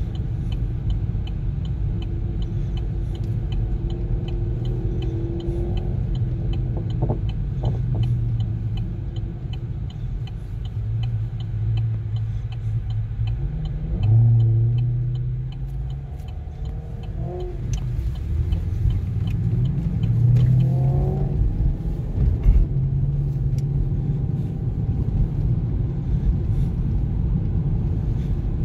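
Car engine and road noise heard from inside a moving car's cabin, following a V8 Holden Commodore. The engine revs rise sharply about 14 seconds in as the cars accelerate away, then climb again twice more. There is a short knock a little later.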